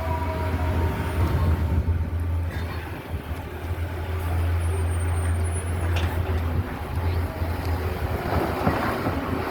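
Heavy diesel truck engine running with a steady low rumble, amid street traffic.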